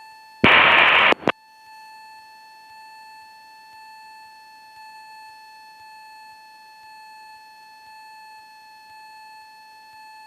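A short burst of radio static about half a second in, then a steady high-pitched electronic tone with overtones on the aircraft's headset audio feed.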